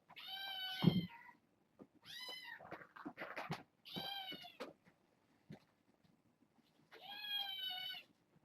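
Young kitten meowing: four drawn-out, high meows, each about a second long, with a soft thump about a second in and small clicks and knocks between the calls.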